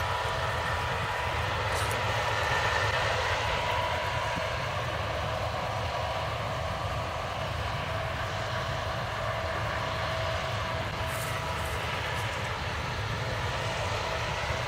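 Case combine harvester running steadily while harvesting barley: an even mechanical drone with low rumble and a few constant whining tones.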